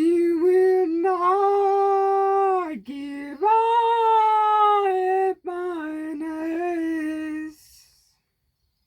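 Unaccompanied singing voice holding long wordless notes: about five sustained, high notes that glide into pitch, with short breaks between them.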